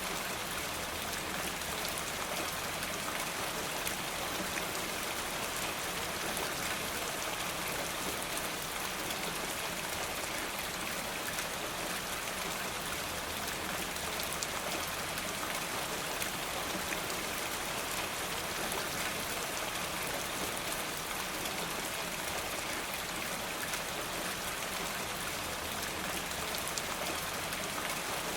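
Steady rain falling: an even hiss with many small raindrop ticks.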